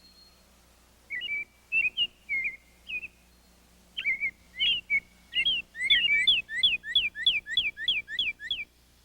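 A songbird singing clear whistled notes: a few short broken phrases, then a quickening run of about a dozen repeated down-slurred whistles that ends abruptly.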